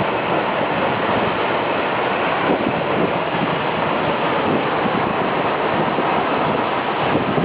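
Gitgit waterfall pouring down: a loud, steady rush of falling water.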